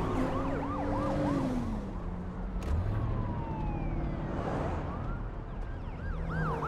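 Emergency vehicle sirens yelping in quick rising-and-falling sweeps, in bursts near the start and near the end, with a long falling siren tone in between. Underneath is the steady low hum of a car's engine and road noise.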